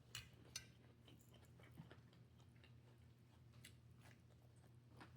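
Very quiet chewing of food close to the microphone, with a few faint, soft wet clicks from the mouth over a low, steady hum.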